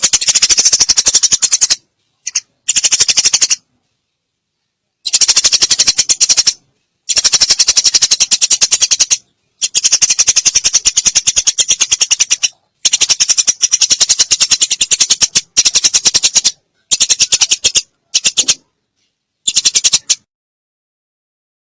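Eurasian tree sparrow giving harsh, very fast chattering calls in about ten bursts, each lasting from a fraction of a second to about three seconds, separated by silent pauses.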